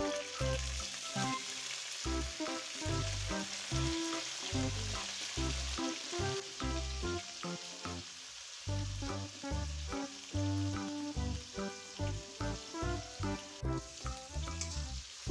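Cabbage, chicken and dried anchovies sizzling in hot oil in a wok, stirred and turned with a metal spatula. Background music with a steady beat plays underneath.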